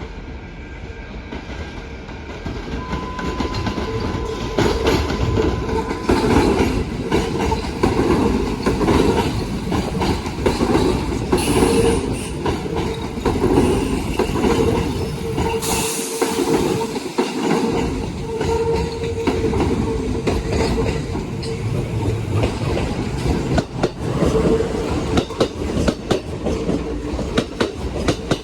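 Kintetsu electric train moving through a station, its wheels clicking over rail joints. It grows louder about three seconds in, with brief high wheel squeals about halfway through.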